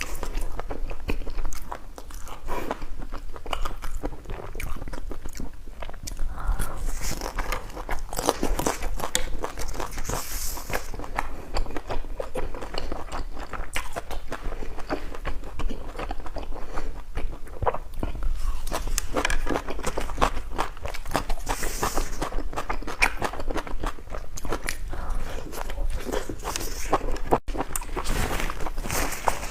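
A person chewing and biting food close to the microphone, with dense, irregular crunching and crackling.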